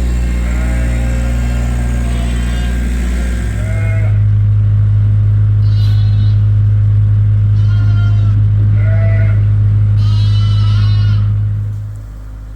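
Sheep and lambs bleating repeatedly over the steady low drone of a skid steer's engine running; the engine grows louder about a third of the way in and dies away near the end.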